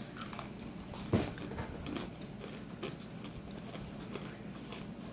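A young child biting and chewing crunchy spicy chips: a run of small crisp crunches, with one louder knock about a second in.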